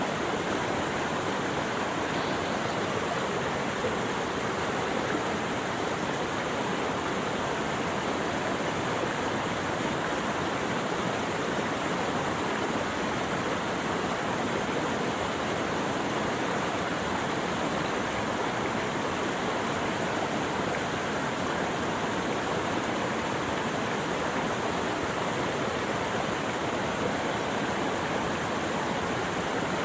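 Steady, unbroken rush of running water, even in level throughout, with no bird calls or other sounds standing out.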